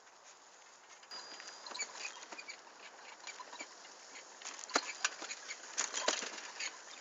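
Bicycle rolling along a forest dirt track: a run of small clicks, crackles and rattles from the tyres and frame over the rough ground. It grows louder from about a second in.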